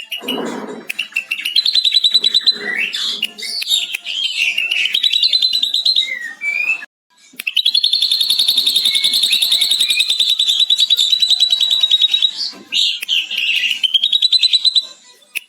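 Ashy drongo singing: rapid high chattering and whistled phrases. About seven seconds in, the sound cuts out briefly, and then comes one long, even, very fast chattering trill of about five seconds, the drongo's mimicry of a lovebird's long 'ngekek' chatter.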